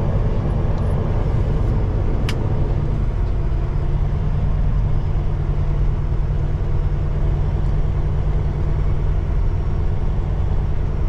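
Peterbilt 389 semi truck's diesel engine running at low speed, a steady low rumble, with a single sharp click about two seconds in.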